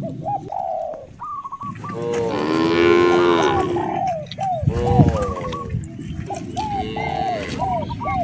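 Cattle mooing: one long moo about two to four seconds in and a shorter one around five seconds. Short repeated bird calls sound in between.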